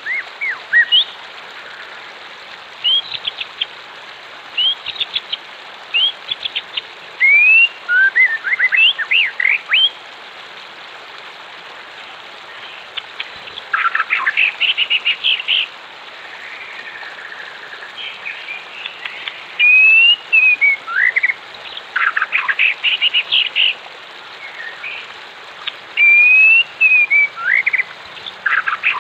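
Several wild songbirds chirping and calling, with quick bursts of rapid chirps and a few slurred whistled notes, over a steady rush of running water.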